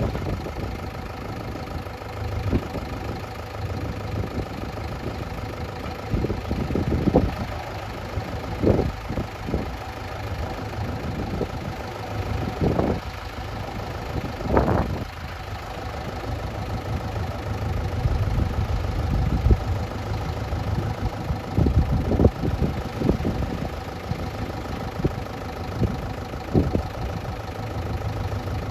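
Heavy diesel engine of earthmoving machinery running steadily, with short knocks and clanks every few seconds while soil is loaded.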